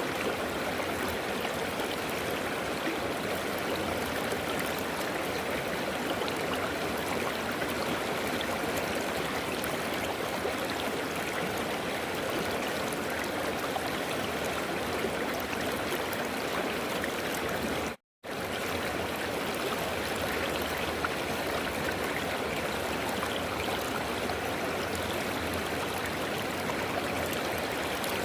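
River water flowing and rushing over rocks, a steady even rush with faint trickling detail. About two-thirds of the way through it cuts out to silence for a fraction of a second, then resumes.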